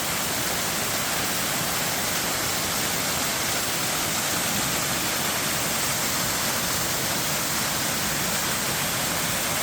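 Water falling over a waterfall in a steady, unbroken rush.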